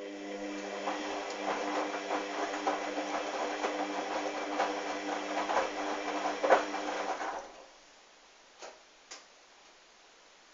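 Hoover washing machine's motor turning the drum of wet towels in the wash: a steady hum with a dense rattle, stopping suddenly about seven and a half seconds in, then two soft clicks.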